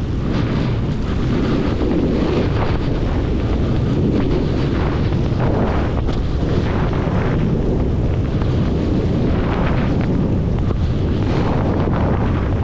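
Heavy wind buffeting the microphone: a loud, steady low rumble with gusty hissing surges.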